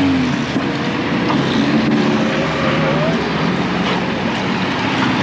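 Off-road 4x4 engines running and revving, the engine note rising and falling.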